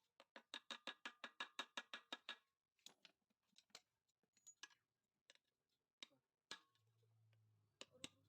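Quiet, quick run of sharp clicks, about seven a second for two seconds, then scattered single clicks and knocks from hand work on a motorcycle engine. A low hum sets in near the end.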